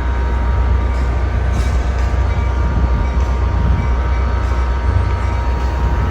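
Commuter train at the terminal running with a steady, loud low rumble and a faint steady whine on top.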